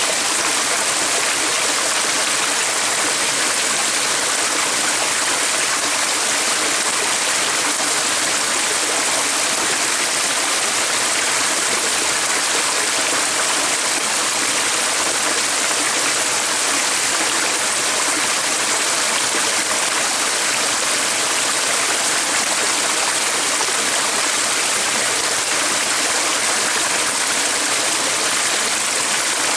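Water of a stream flowing, a steady, even rushing with no breaks.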